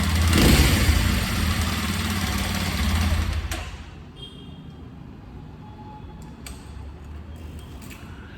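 Kawasaki KLX 230's single-cylinder engine idling, with a brief surge about half a second in. It stops suddenly about three and a half seconds in, leaving a low background with a few faint clicks.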